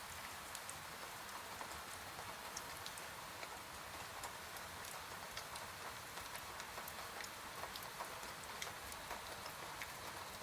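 Steady rain, an even hiss with many scattered single drops ticking sharply on a surface.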